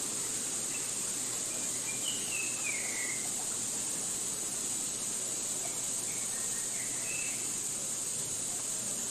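A steady, high-pitched drone of insects, with a few bird calls over it: a falling call about two seconds in and short chirps around seven seconds.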